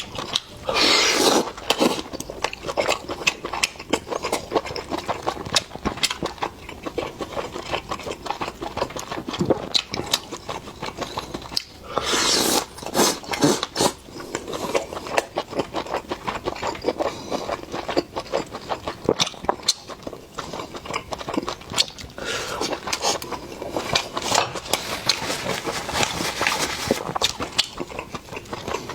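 Close-miked eating sounds: steady wet chewing and lip-smacking, with louder spells of sucking and slurping about a second in, around twelve seconds in and again near the end.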